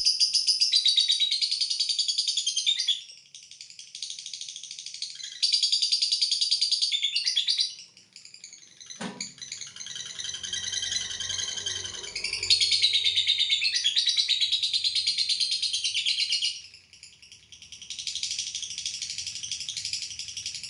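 Lovebird giving its long 'ngekek': a fast, shrill, rapidly repeated chattering trill in sustained bursts of several seconds each, with short softer pauses between them. A single knock sounds about nine seconds in.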